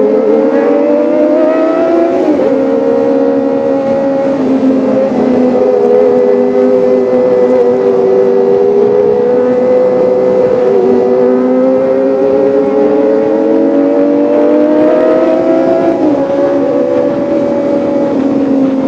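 Kawasaki ZX-25R's 249 cc inline-four engine running under way, its pitch climbing steadily and then dropping suddenly a few times (about two seconds in and again near the end). The pitch holds fairly even between the drops before rising again.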